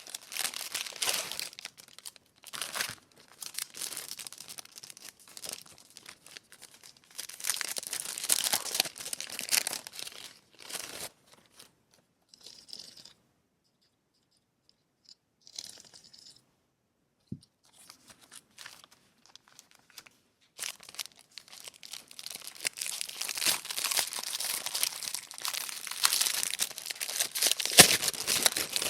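Packaging being torn open and crinkled by hand: irregular bursts of tearing and rustling with sharp crackles. There is a near-quiet pause in the middle, and the rustling grows denser near the end.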